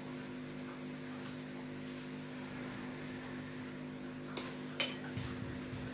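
A steady low electrical hum of a few even tones, with two or three sharp clicks from handling small electronic parts about four and a half seconds in.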